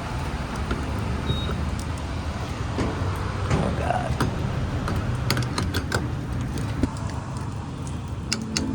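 Steady vehicle rumble of a car's engine and road noise, with a few short clicks near the end.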